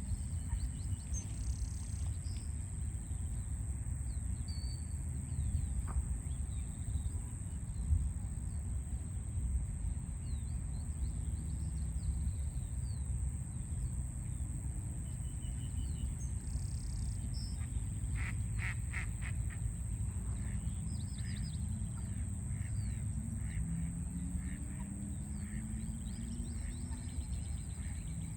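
Birds calling and chirping over a steady low rumble of city traffic, with a quick run of repeated calls about two-thirds of the way through.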